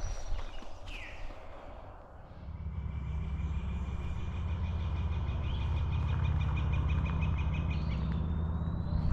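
Woodland songbirds singing, one with a long fast trill, while a low steady motor drone comes in about two and a half seconds in and grows to be the loudest sound.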